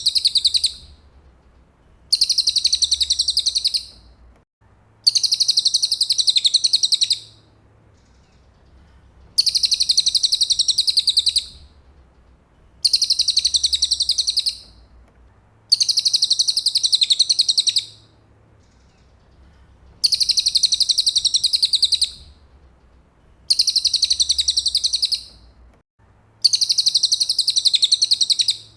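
Cililin songbird singing: a high, very rapid trill about two seconds long, given eight times with short pauses between, as in a song recording used to tutor murai.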